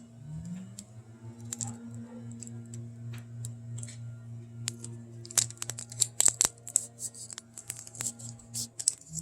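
Sticky tape being pulled, torn and pressed down on a cup, making scattered sharp clicks and crackles that grow busier about halfway through, over a steady low hum.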